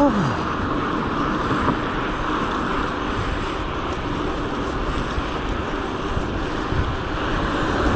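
Wind rushing over the microphone while cycling along a road, with steady road and traffic noise and a brief falling tone right at the start.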